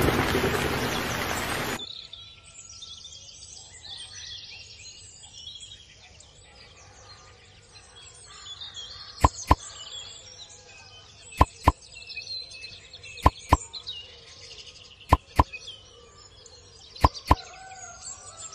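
Heavy rain cuts off about two seconds in, leaving a backdrop of birdsong. From about halfway, sharp pops come in pairs roughly every two seconds, five pairs in all: a sound effect added in editing.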